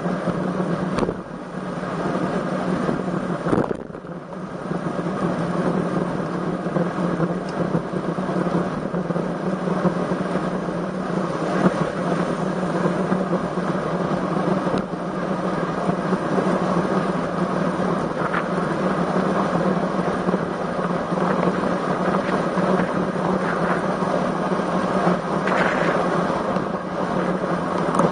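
Steady rush of wind on the microphone and road noise from a road bike ride in strong wind, with two brief dips in the first few seconds.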